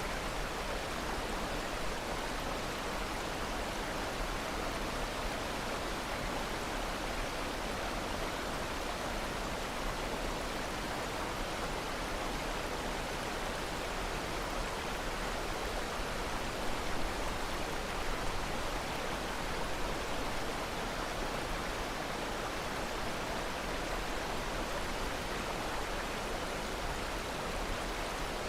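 Steady rushing of running water, like a stream or waterfall, an even unbroken sound with a couple of slightly louder moments a little past halfway.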